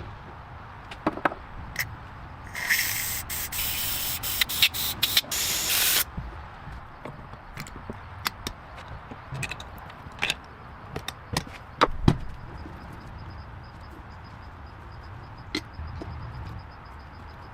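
A pressurised spray hissing for about three and a half seconds, cutting off sharply, followed by scattered clicks and knocks of workshop handling.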